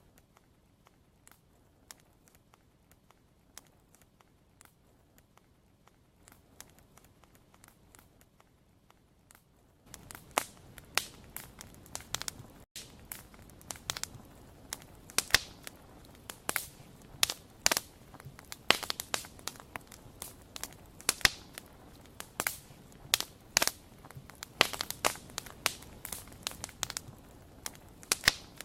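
Wood fire crackling, with irregular sharp pops and snaps. It is faint and sparse for the first ten seconds, then louder and much denser from about ten seconds in.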